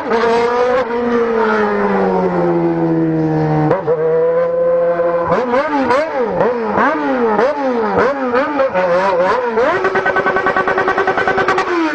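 Motorcycle engine heard from the rider's seat. Its pitch falls slowly for the first few seconds as the revs drop, then rises and falls in quick repeated swings as the throttle is worked, and near the end it holds at a steady pitch.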